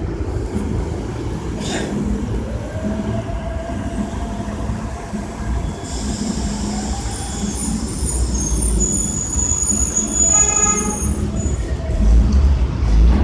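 Elevated subway train running over the tracks: a steady low rumble that grows louder toward the end, with high-pitched wheel squeal setting in about halfway and a brief tone shortly before the end.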